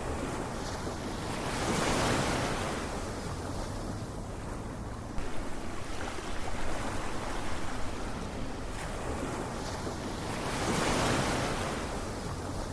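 Ocean surf with waves breaking and washing in. Two swells about nine seconds apart, with a steady hiss of foam between them.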